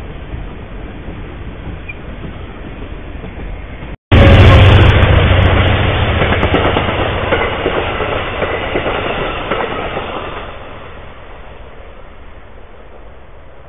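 Trains passing close by on the track. At first a steady, moderate rumble of rail cars going by; then, after a sudden cut about four seconds in, an Amtrak passenger train is much louder as its coaches roll past, and the sound fades away over the next six seconds as the train leaves.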